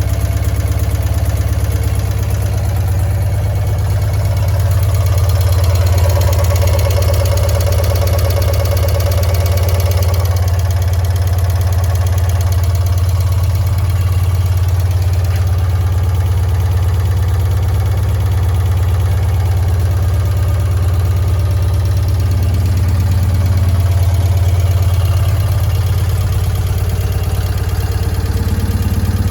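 1968 BMW R50/2's flat-twin engine idling steadily as it warms up after a cold start, swelling a little a few seconds in.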